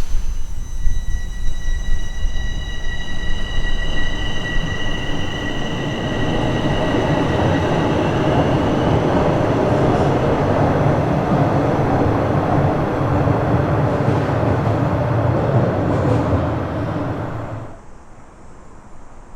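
Bombardier Toronto Rocket subway train setting off and gathering speed, with a set of high electric whining tones from the traction motors over the first half. The running noise of the wheels on the rails builds and stays steady, then drops off sharply near the end.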